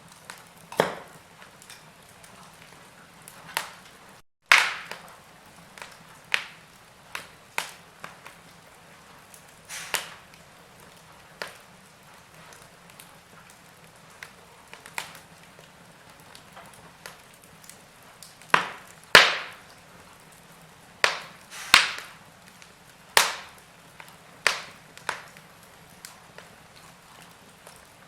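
Wood logs burning in a fireplace, crackling with irregular sharp pops and snaps over a low hiss. A cluster of louder pops comes about two-thirds of the way through, and the sound cuts out for a split second about four seconds in.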